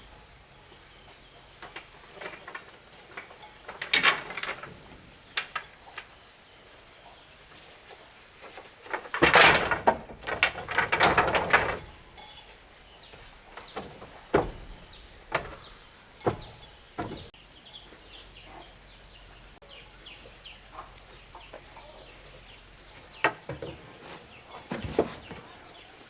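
Scattered knocks and clatters of wood being handled and worked, with a louder couple of seconds of scraping about nine to twelve seconds in.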